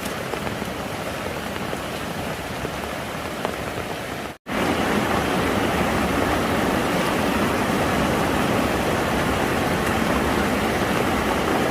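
Steady rain falling. About four and a half seconds in, it cuts sharply to a louder, steady rush of flowing water.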